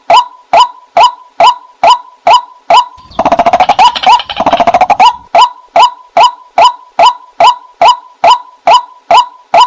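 White-breasted waterhen call (a lure recording): a steady run of loud, sharp "kwak" notes, about two and a half a second. About three seconds in, they give way to a fast, dense chattering run lasting about two seconds, then the steady notes resume.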